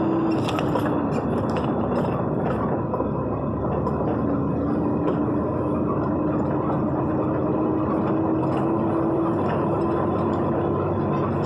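Vehicle driving in heavy rain: a steady engine drone under a constant rush of road and rain noise, with scattered light ticks.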